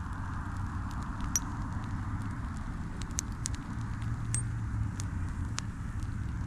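Campfire burning, with a steady low rumble and hiss and scattered sharp crackles and pops, a few of them with a brief high squeal.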